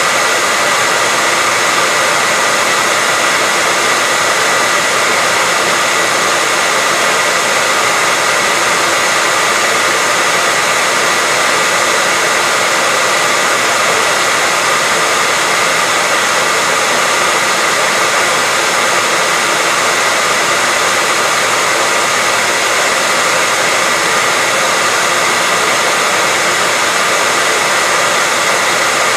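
Hair dryer running steadily: an even, rushing blow of air with a high whine from its motor and fan that never changes.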